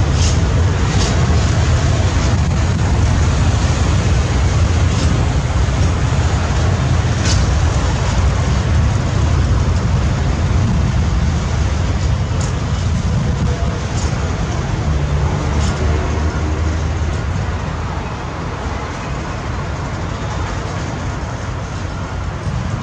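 Freight train of covered hopper wagons rolling past: a steady low rumble of steel wheels on rail with a few sharp clicks, easing slightly in the last few seconds.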